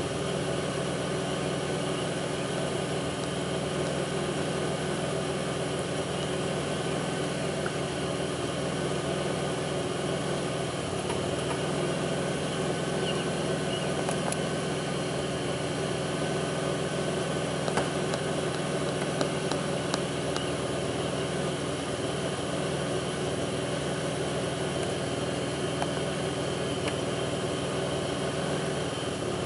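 2002 Pontiac Grand Prix's 3800 V6 engine idling steadily, with a few faint short ticks a little past the middle. The idle is the rough one the owner is chasing: a faint intermittent thumping that pulls the idle down.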